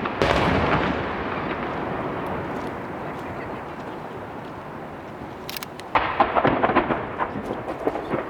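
Aerial firework shells bursting overhead. A loud boom just after the start rumbles and echoes away over several seconds, then from about six seconds a rapid cluster of bangs and crackles follows.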